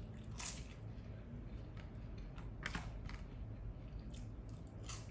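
Crisp tostada shell being bitten and chewed close to the microphone: a series of sharp, brittle crunches at uneven intervals.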